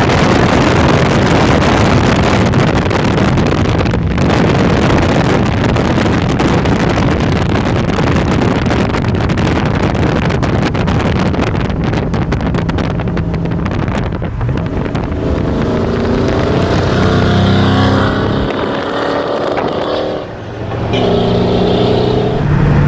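Holden VZ Monaro V8 driving at speed, with a heavy rush of wind and road noise over it; in the last third the engine note climbs in pitch, dips briefly, and climbs again.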